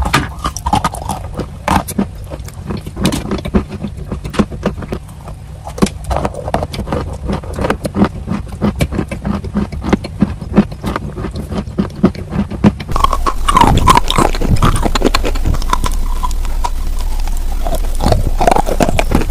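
Close-miked chewing of edible chalk: many sharp crunches and clicks as the pieces are bitten and ground between the teeth, over a low steady hum. About 13 seconds in it changes to louder, denser chewing of grey clay held right at the microphone, with wet mouth sounds.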